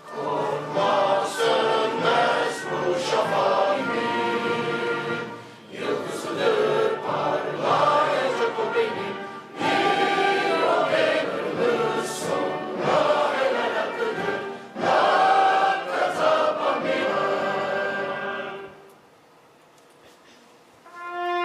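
Choral singing in phrases with short breaks between them, ending about nineteen seconds in; a brief tone sounds near the end.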